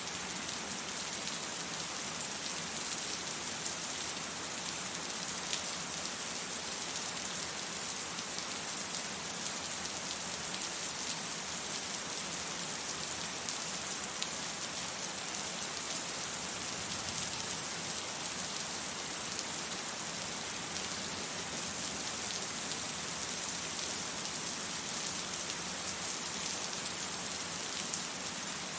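Steady rain falling: an even, bright hiss with faint scattered drop ticks, and no thunder.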